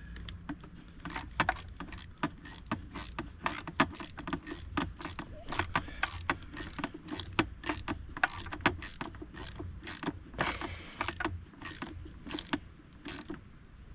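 A hand tool clicking in many short, irregular strokes as a fuel-line hold-down on an outboard motor is tightened.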